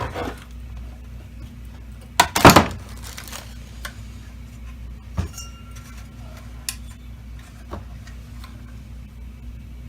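Parts of a Dyson DC25 vacuum cleaner being handled and fitted back together as a spring is refitted. A cluster of sharp clicks and clatters comes about two and a half seconds in, then a few lighter single clicks.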